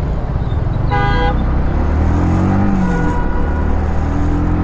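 Yamaha MT-15's single-cylinder engine running through its stock exhaust on the move, its note rising and falling. A short vehicle horn blast sounds about a second in, and a fainter horn toot follows a couple of seconds later.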